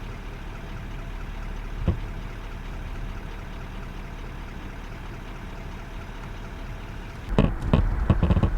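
Vehicle engine idling steadily, with a single knock about two seconds in. Near the end, loud irregular thumps and rumbling start up.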